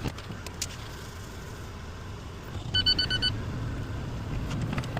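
Box truck cab on the road: the engine and road noise make a steady low rumble that swells a little before the middle. Around the middle comes a quick run of about five high electronic beeps in half a second.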